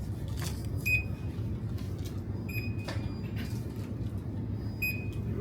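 Checkout barcode scanner beeping three times, once every second and a half to two seconds, as items are scanned at the till, over a steady low shop hum.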